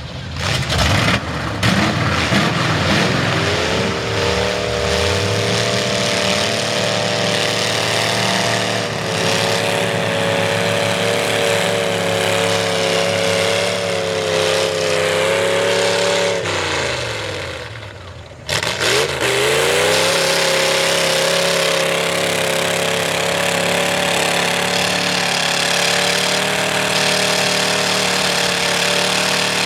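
Ford V8 mud truck engine with open upright headers, revving up and held at high revs. About two-thirds of the way through, the revs fall away and the sound dips, then the engine snaps back up and holds high again.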